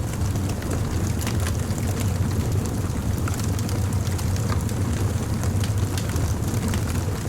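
Wood fire burning, with a steady low rumble under scattered sharp crackles and pops.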